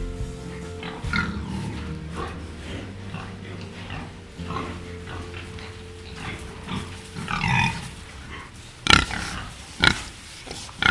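Short, irregular animal calls over background music, with two louder sharp sounds about nine and ten seconds in.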